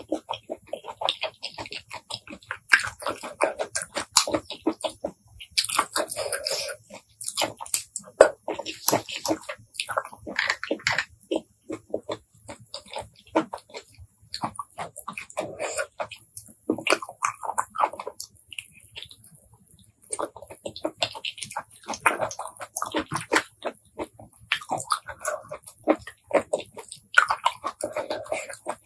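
Close-miked chewing and wet mouth sounds of eating blood cockle and apple snail meat, with irregular clicks of shells handled and meat picked out with a toothpick. The chewing pauses briefly a little past the middle.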